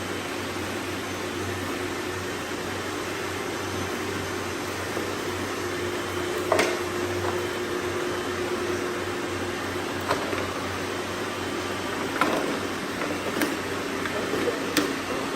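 Several robot vacuums running together: a steady whirring hum, broken by a handful of sharp clicks and knocks in the second half.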